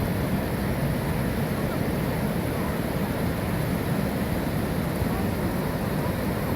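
Steady, unbroken rush of water tumbling over a small river waterfall.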